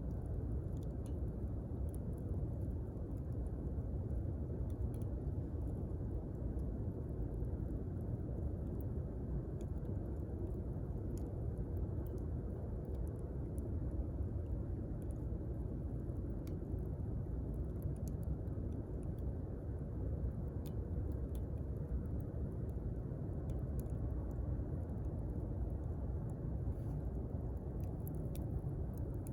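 Wood campfire burning: a steady low rumble with scattered sharp crackles and pops at irregular intervals.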